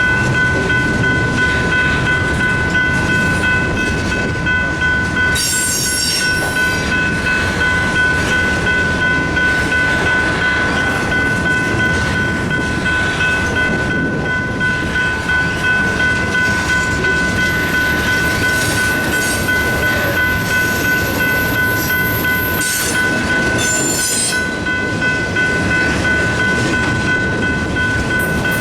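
Freight cars of an intermodal train rolling through a grade crossing with a steady rumble and wheel clatter, while the crossing's General Signals electronic bell rings on a steady high tone. Two brief high-pitched squeals come through, about six seconds in and again near the end.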